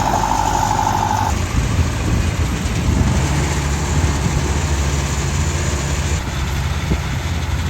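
Kubota DC-105X combine harvester's diesel engine running steadily at high throttle, with a high whine that cuts off about a second in.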